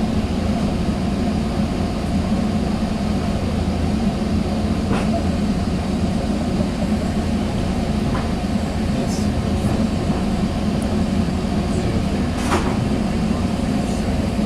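Steady mechanical hum inside a Sounder commuter rail coach standing at a station, with a few faint clicks.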